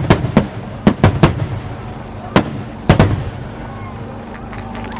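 Aerial fireworks shells bursting in a quick series of sharp bangs, about six in the first three seconds, then a lull with only faint crackling. A steady low hum runs underneath.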